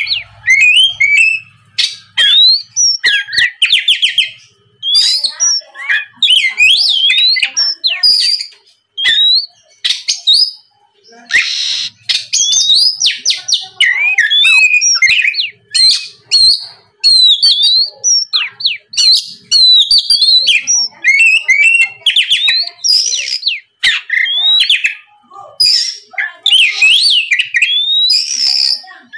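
Oriental magpie-robin singing: long, loud phrases of clear whistles and notes that slide up and down, mixed with sharp chattering notes, broken by short pauses.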